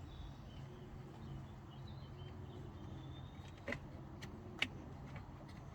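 Faint steady low hum with a few small, sharp plastic clicks, the sound of wiring connectors and dash trim being handled behind the switch panel.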